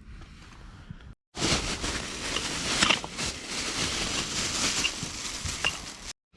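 Firewood burning in a small barbecue grill, hissing and crackling with scattered sharp pops. The fire sound starts suddenly about a second in and cuts off abruptly just before the end.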